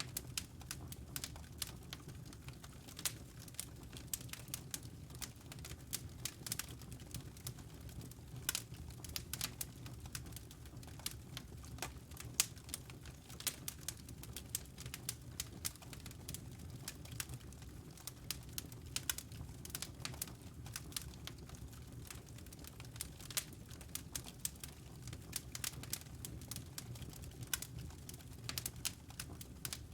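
Wood logs burning in a fireplace: dense, irregular crackling and popping, several sharp pops a second, over a low steady rumble of the flames.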